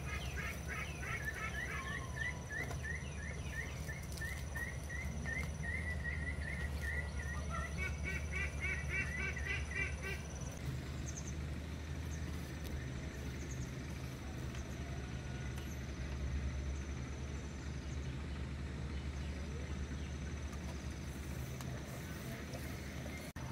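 A bird calling in a long run of quick repeated notes for about the first ten seconds, over a steady low hum and a thin, high, steady insect-like whine that comes and goes.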